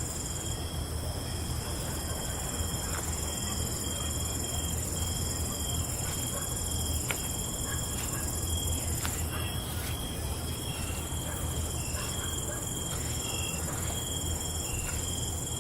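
Night crickets chirping: several insects trilling at once at different high pitches, some steady and some in short broken pulses, over a low steady rumble.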